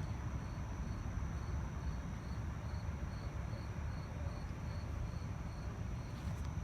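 Crickets chirping in an even rhythm, about two to three chirps a second, over a steady low rumble.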